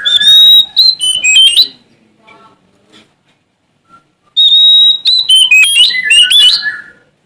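Oriental magpie-robin singing: two loud phrases a few seconds apart, each opening with a long, clear held whistle and running on into quick, varied sliding notes.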